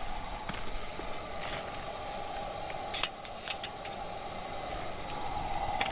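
Campfire burning with a steady hiss and a few sharp crackling pops about three seconds in, over a thin, steady high tone.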